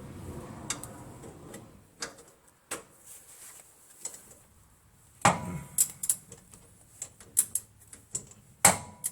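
Hand tools clicking and knocking against metal in an irregular string of sharp clicks, with two louder knocks about five seconds in and near the end.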